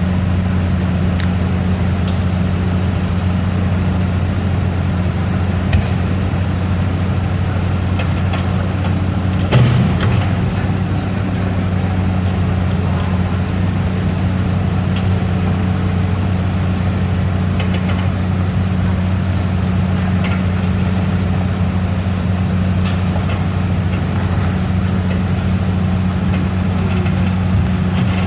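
Heavy truck engine running at a steady pitch, with a few short knocks, the clearest about six and ten seconds in.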